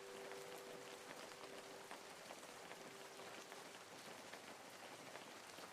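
Faint steady rain with scattered small drip ticks. A last held music note fades away about three seconds in.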